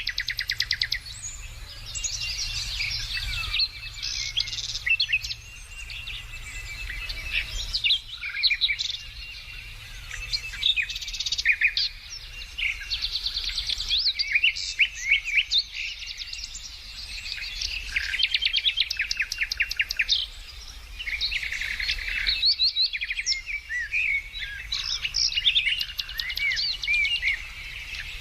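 Several songbirds singing and chirping at once, overlapping phrases of quick sweeping notes and rapid trills, with only brief lulls.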